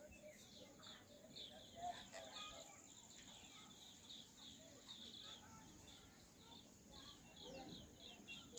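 Faint chorus of small birds chirping: many short, high chirps, several a second, with a few fainter calls among them.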